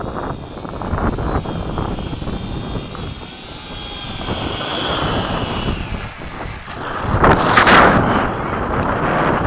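Electric motors and propellers of a small radio-control B-17 model flying, a high whine that wavers in pitch, over heavy wind noise on the microphone that surges loudest about three-quarters of the way through.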